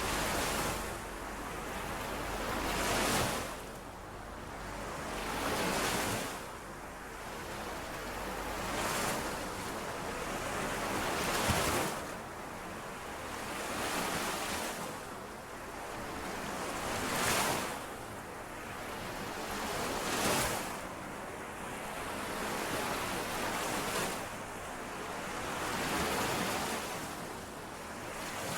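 Small lake waves washing in and out on the shore, one surge of splash about every three seconds.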